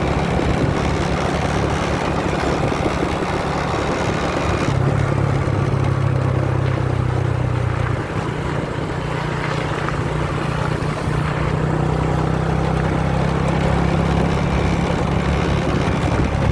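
Motorbike engine running at a steady cruise, with wind rushing over the microphone. The engine note shifts briefly from about five to eight seconds in, then settles back.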